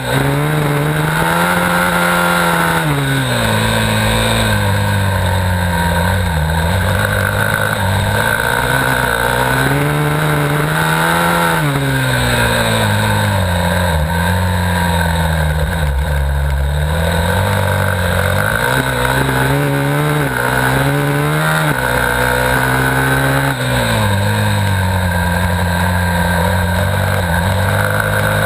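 Dirt bike engine at racing speed, its pitch climbing and dropping again and again every few seconds as the throttle is worked and gears change. Recorded on a helmet-mounted GoPro.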